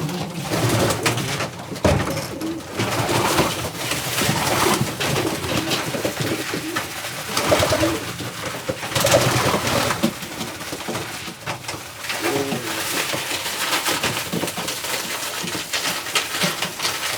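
Pigeons cooing repeatedly in a loft, low calls coming again and again among scattered noisier sounds.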